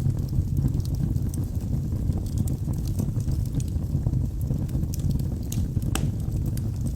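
Wood fire burning in a fireplace: a steady low roar of flames with scattered sharp crackles and pops from the logs, one louder pop about six seconds in.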